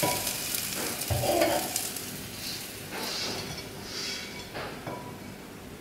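Tofu pieces sizzling in hot oil in a wok, with a spatula scraping and stirring them. The sizzle slowly dies away.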